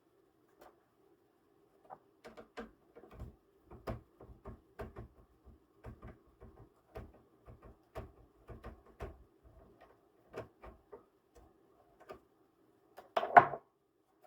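Irregular light clicks and taps of a screwdriver and small screws on a laptop's plastic case during disassembly, with a louder clatter about thirteen seconds in.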